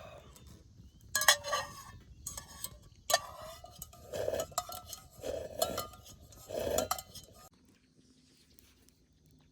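Metal cookware and utensils clinking and scraping, with a few sharp ringing clinks and several scraping, handling noises, ending about seven and a half seconds in.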